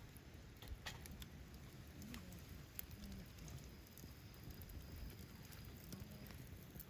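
Faint, irregular crackles and ticks of a wood campfire over a low background hiss.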